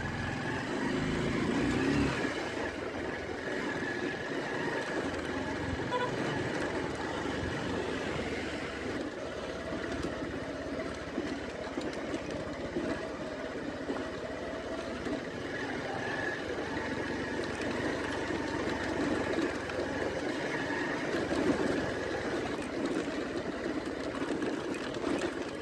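Motorcycle engine running steadily while the bike is ridden along a muddy dirt road.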